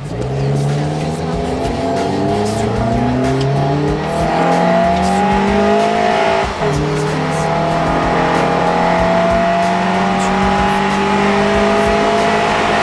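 2009 Honda Accord with a custom dual exhaust and Injen intake accelerating hard, heard from inside the cabin. The engine note climbs steadily to high revs, drops sharply at an upshift about six and a half seconds in, then climbs again.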